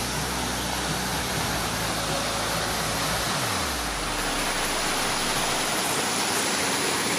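Waterfall rushing steadily. Under it, a low engine hum drops in pitch and dies away about three and a half seconds in.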